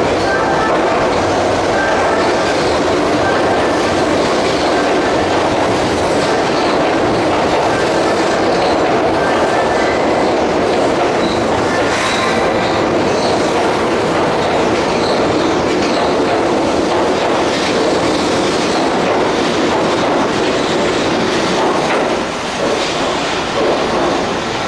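Keihan electric train running alongside the platform, a steady loud rumble of wheels clattering over rail joints, easing off near the end.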